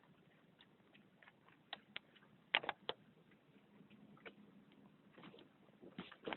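Campfire of damp wood crackling: sparse, irregular pops and snaps, the loudest cluster about two and a half seconds in and another near the end.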